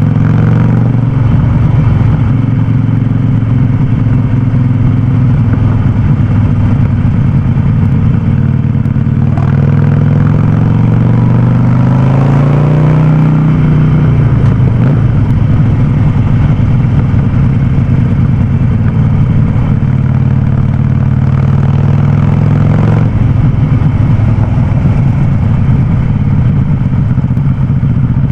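Harley-Davidson Sportster 48's air-cooled 1200 cc V-twin running through a loud aftermarket Vance & Hines exhaust while riding. The engine note climbs from about ten seconds in to a peak near thirteen seconds, then falls back, and shifts again near twenty-three seconds.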